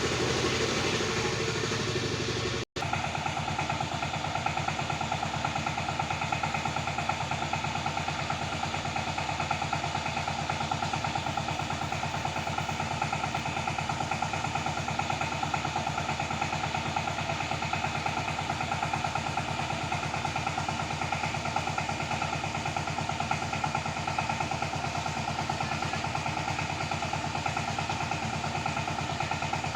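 Tractor engine running steadily under cultivating work, a constant even drone with a fine rapid beat. The sound cuts out for an instant just under three seconds in, then resumes unchanged.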